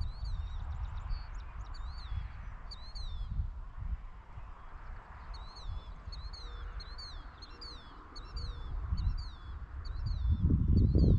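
Small birds chirping in quick repeated series of short, high notes, over a faint steady outdoor hiss. A low rumble sits underneath and swells louder near the end.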